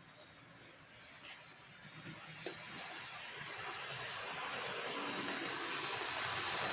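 Model FP45 diesel locomotive running on its layout, its electric motor and wheels on the track making a hissing whir with a few faint clicks, growing steadily louder as the train approaches.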